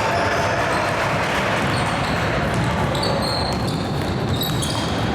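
Basketball game sounds echoing in a gym: a ball bouncing on the hardwood amid scattered voices from players and spectators.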